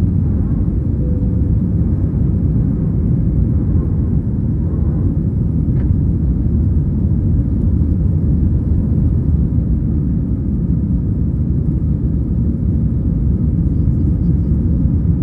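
Airbus A320-214 engines and airflow heard inside the passenger cabin: a loud, steady low rumble with no change in pitch.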